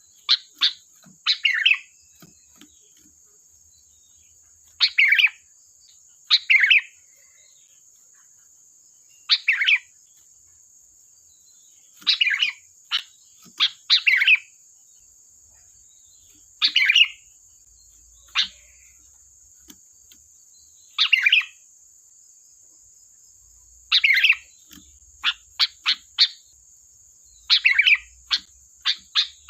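Sooty-headed bulbul calling in short, sharp bursts of a few quick notes, every one to three seconds.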